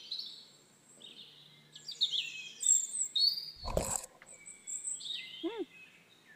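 Small birds chirping and calling, many short high-pitched calls and quick glides overlapping. A brief loud thump comes a little past halfway, and a short call that rises and falls in pitch sounds about three quarters of the way in.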